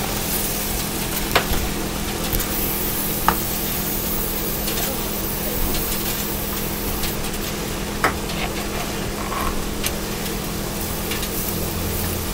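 Eggs and cheese sizzling in a cast-iron skillet on a gas stove while a spatula stirs and scrapes them, with a few sharp clicks of the utensil against the pan. A steady low hum runs underneath.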